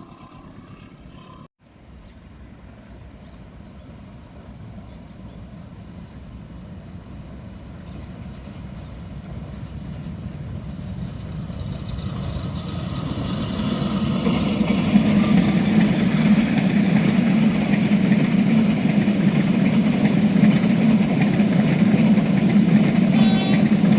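Diesel train approaching: its low engine and rail rumble swells steadily for about twelve seconds until it runs loud and close.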